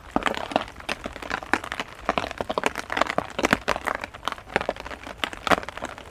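Heavy rain, with big drops landing on a nearby surface as a dense, irregular run of sharp taps over a steady hiss.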